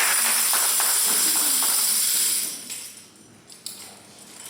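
Tambourine jingling over a congregation's clapping, both stopping a little over two seconds in.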